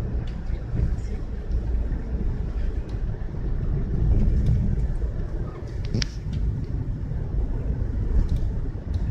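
Car driving through a blizzard: a steady low rumble of road and wind noise with scattered faint ticks. There is a short, sharp squeak falling in pitch about six seconds in.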